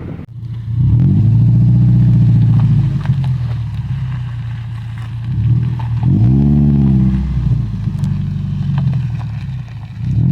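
A 2004 Subaru Forester's naturally aspirated 2.5-litre flat-four running through a Tsudo catback exhaust, revving: the engine note climbs about half a second in and holds high for a couple of seconds, eases off, rises and falls again around six seconds, and starts climbing again at the end.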